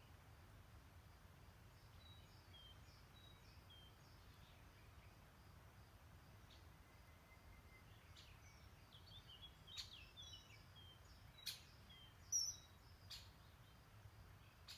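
Faint songbirds chirping in short, high notes, starting about two seconds in and growing busier in the second half, over a low steady background rumble. A few sharp clicks fall near the end, and the loudest sound is one brief high bird call about twelve seconds in.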